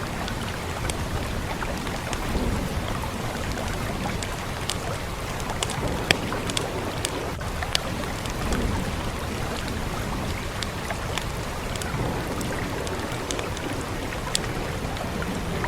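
Steady rain falling, with the irregular sharp pops and crackles of a fireplace fire scattered through it.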